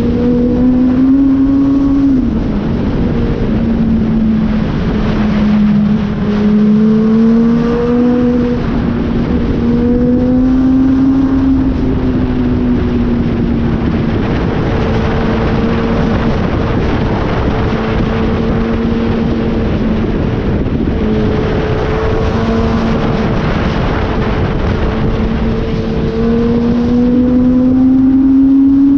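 Kawasaki ZX-10R's inline-four engine running at steady cruising revs over a constant rush of wind. The note dips briefly about two seconds in and climbs near the end as the bike accelerates.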